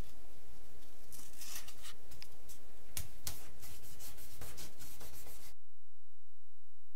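Hand sanding of a small workpiece: irregular scratchy rubbing strokes with a few sharper ticks, stopping abruptly about five and a half seconds in.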